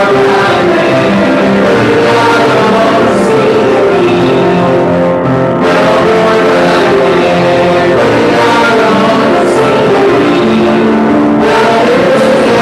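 A congregation singing a hymn with instrumental accompaniment, in long held phrases with a short break about five seconds in.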